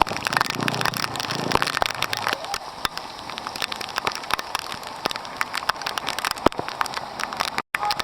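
Rain pattering and crackling on the microphone in a dense, irregular stream of sharp clicks over a steady hiss, cutting out for an instant near the end.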